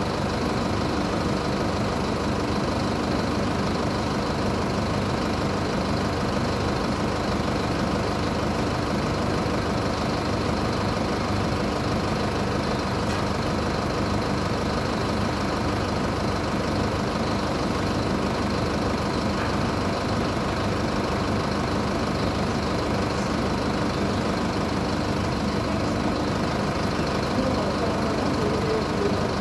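Diesel engine of a parked Mercedes-Benz OF-1722 bus idling steadily.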